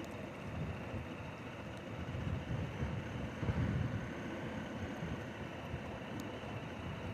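Wind buffeting the microphone of a moving motorcycle on a dirt road, with the engine running underneath. The buffeting swells for a couple of seconds around the middle.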